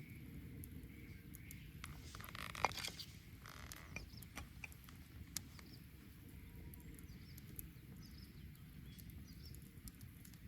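Wood bonfire crackling with scattered sharp pops over a steady low rumble. Around two to three and a half seconds in there is a brief flurry of hissing and crackling, holding the loudest pop.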